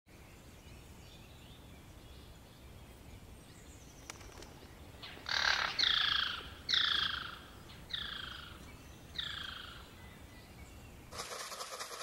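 A bird calling five times over a steady outdoor hiss, each call a short falling note. About a second before the end the background changes abruptly to a denser, crackling noise.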